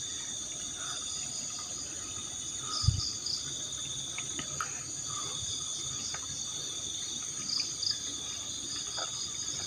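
Steady chorus of insects trilling continuously on several high pitches, with a single low thump about three seconds in.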